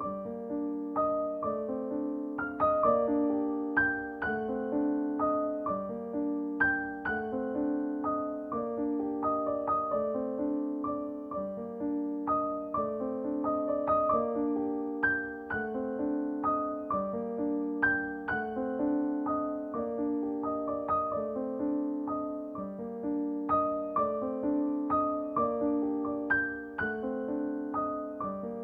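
Background piano music: a gentle, steady melody of repeated notes.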